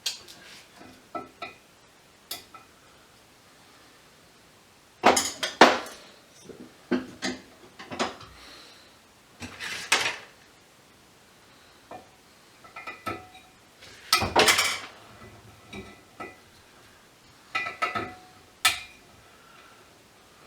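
Intermittent clinks, clicks and clattering of hand tools and small hard parts being handled while a variable frequency drive is taken apart on a workbench, with busier runs of clatter about a quarter of the way in and again past the middle.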